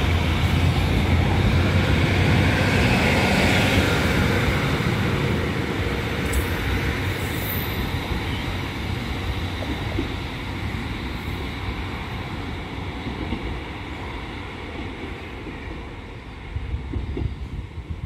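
Class 153 diesel multiple unit pulling away from the platform, its diesel engine and wheels on the rails fading steadily as it draws off into the distance.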